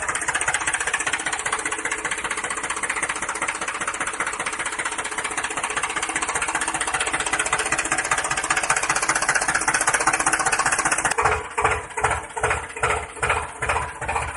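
Small motor of a homemade toy tractor running with a steady buzz. About eleven seconds in, it changes to an even pulsing of roughly three beats a second.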